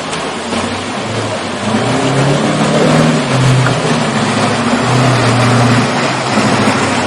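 Car engine running and revving as the car drives through water, its pitch stepping up and down, with a steady rushing hiss of water spray throughout. It gets louder about two seconds in.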